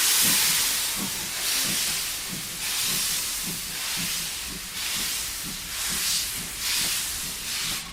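Steam locomotive chuffing: bursts of steam hiss about once a second over quicker low exhaust beats. It cuts off abruptly near the end.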